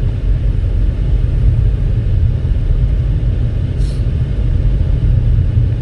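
2019 Toyota RAV4 driving on a snowy highway, heard from inside the cabin: a steady low rumble of tyres and engine.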